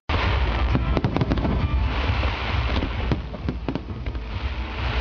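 Fireworks display: a dense, irregular run of sharp bangs and crackling as aerial shells burst, with swells of hissing between the reports.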